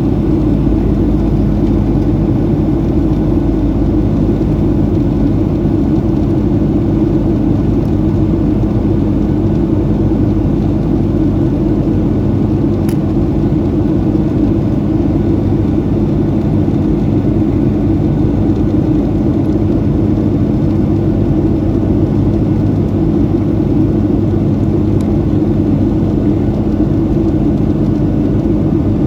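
Steady roar inside the cabin of a Boeing 737-700 in flight, from its CFM56-7B turbofan engines and the airflow, with an even low hum throughout.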